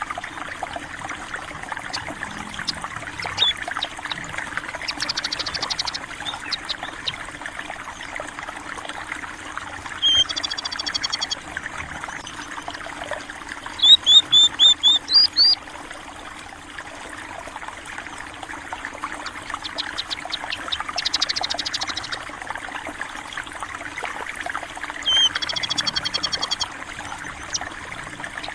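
Water trickling and flowing steadily, with small birds (burung pipit) chirping over it in short, rapid runs of high notes about five times. The loudest run, about seven sharp notes, comes about halfway through.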